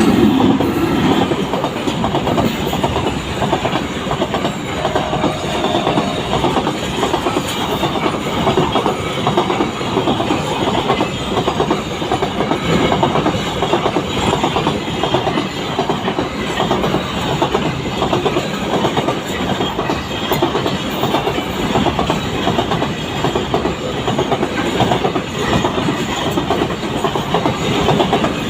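Indian Railways train running along the track, its wheels clattering over the rail joints in a steady clickety-clack.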